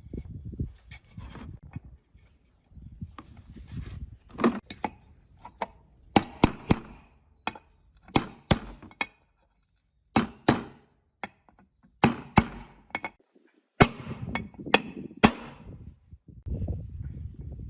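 Workshop handling sounds: a series of sharp knocks and clicks of hand tools and metal parts being worked on, with rustling and scraping between. The knocks come thickest in the middle, with a brief pause partway through.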